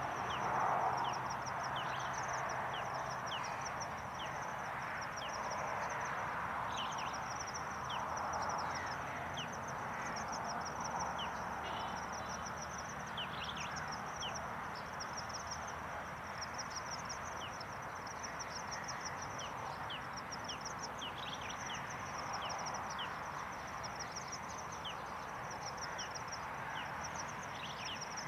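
Natural outdoor ambience: a steady, fast-pulsing high insect trill with short high bird chirps scattered throughout, over a steady hiss.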